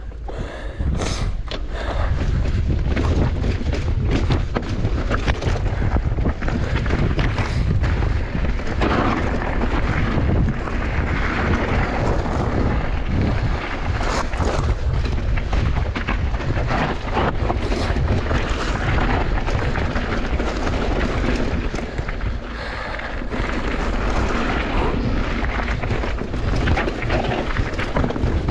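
Mountain bike descending a bike park trail: wind rumbling hard on the microphone over tyre noise on dirt, with frequent knocks and rattles of the bike over bumps.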